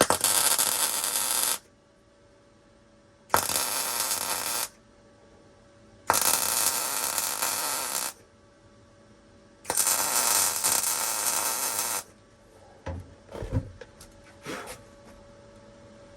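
MIG welder laying four short stitch welds into a thin sheet-metal floor-pan patch, each a crackling hiss of one and a half to two seconds with pauses between, followed by a few light clicks and taps. The arc is not burning through the thin metal.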